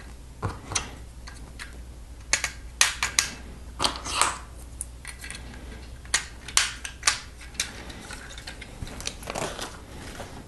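LEGO bricks clicking and snapping together and plastic parts clattering as a set is assembled by hand: irregular sharp clicks, some in quick clusters.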